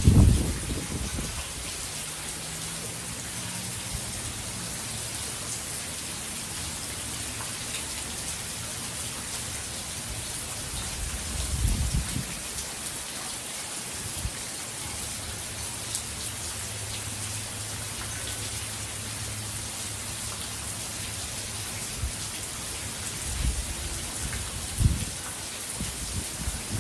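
Steady hurricane rain falling, with a few short low rumbles or thumps: the loudest right at the start, another about halfway through, and two more near the end.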